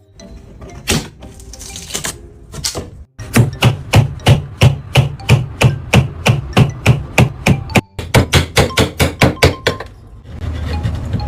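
Hammer striking wood in a fast, even run of blows, about three or four a second, with a short break partway through. A few separate knocks come before the run starts.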